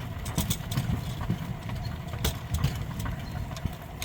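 Rail bike's steel wheels rolling along railway track: a steady low rumble broken by a few sharp, irregular clicks and clacks.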